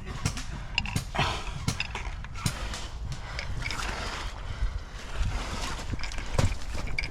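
Footsteps and rustling kit of a player moving on foot: irregular thuds and scuffs over a low rumble.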